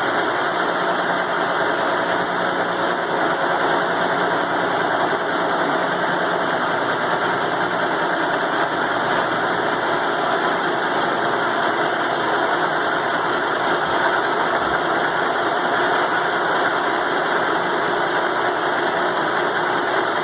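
Milling machine cutting steel with a 2-inch four-flute end mill at a slow feed: a steady, even cutting noise through inch-and-a-quarter-thick steel, without chatter.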